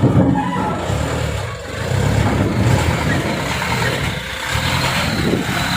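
Heavily loaded truck's diesel engine running steadily under load, easing slightly about a third of the way in and then picking up again.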